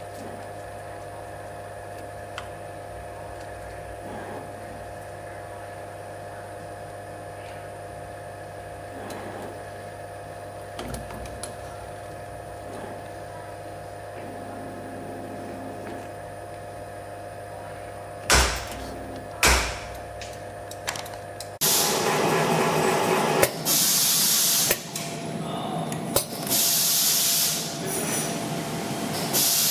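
Steady electric machine hum with faint ticks, broken by two sharp knocks; then the hum cuts off and loud bursts of hissing follow, each lasting a second or two.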